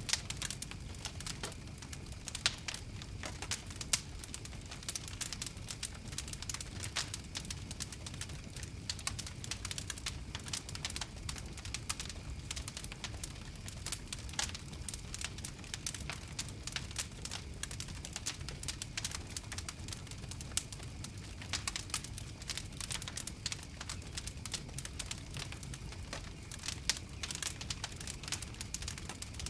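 Fire crackling: dense, irregular snaps and pops over a low, steady rumble of flames.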